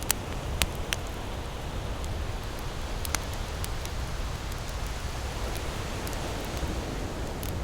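Campfire crackling, with a few sharp pops from the burning wood: several in the first second, a couple around three seconds in and one near the end. Underneath is a steady low rush of ocean surf.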